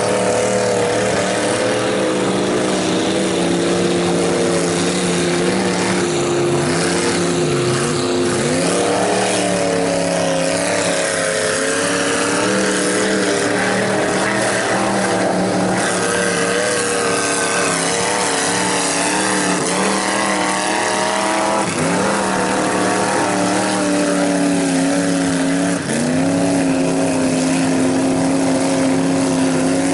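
Lifted mud truck engine running hard under load, its pitch holding steady for stretches and then dropping and climbing again several times as the throttle is worked while the wheels spin in the mud.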